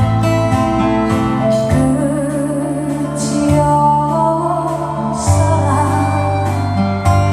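A woman singing a slow ballad with vibrato over a strummed acoustic guitar.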